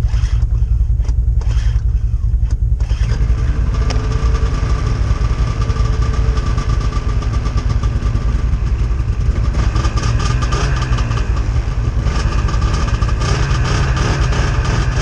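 Vehicle engines idling steadily; about three seconds in, a second engine comes in on top of the low running hum.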